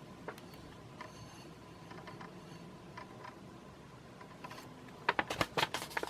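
Quiet room tone with faint clicks, then a second-long burst of crackling clicks near the end, like the glossy paper pages of a brochure being handled and turned.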